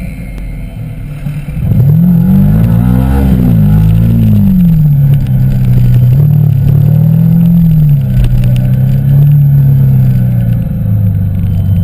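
Yamaha YZF-R15 v2.0 motorcycle's single-cylinder engine, fitted with a K&N air filter, riding along. It is quieter for the first second and a half, then the revs climb and fall several times before settling to a fairly steady pitch.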